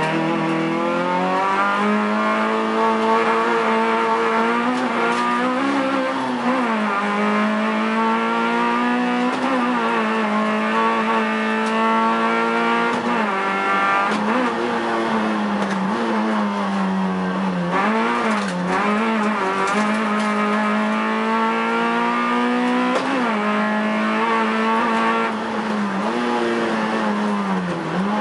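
Peugeot 106 Rallye Group A rally car's four-cylinder engine at full throttle, heard from inside the stripped-out cabin. The revs hold high, then dip and climb again several times as the driver shifts and brakes for the bends.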